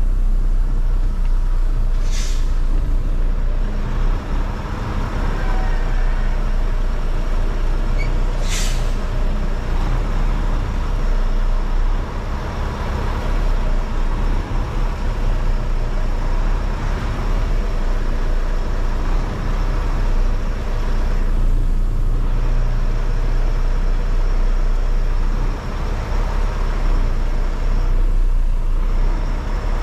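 Semi-truck's diesel engine idling steadily. Two short hisses of air come about six seconds apart in the first third.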